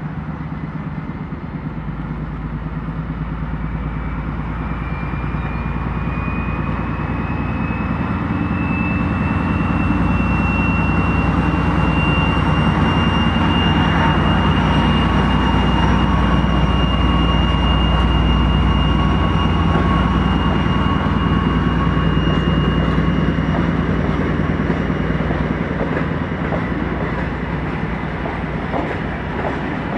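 Train moving slowly past, with a low engine hum and a thin high whine that slides up in pitch and then holds steady. The sound grows louder toward the middle and eases off somewhat near the end.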